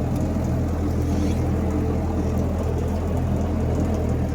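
Massey Ferguson F40 tractor engine running steadily while the tractor is driven, a constant low engine hum.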